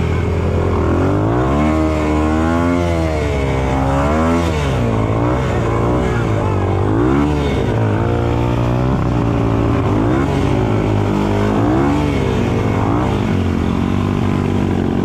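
Off-road motorcycle engine revving through mud, its pitch rising and falling repeatedly over a steadier low engine hum.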